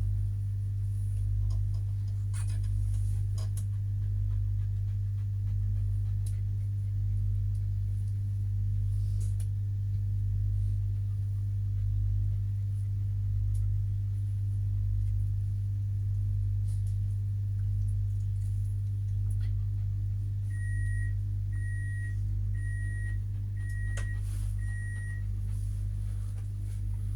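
Steady low hum and rumble of a regional passenger train heard from inside the carriage, with five short high beeps about a second apart near the end.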